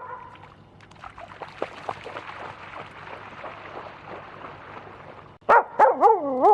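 Husky barking and vocalising. A quieter, busy stretch of rapid yapping comes first, then a run of loud barks near the end that turn into a wavering call falling in pitch.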